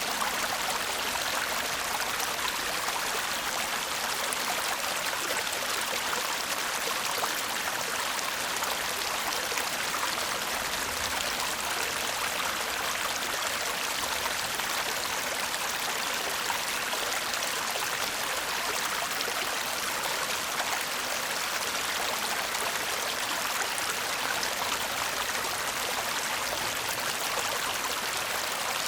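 Babbling brook: a shallow stream murmuring with a steady, even rush of flowing water.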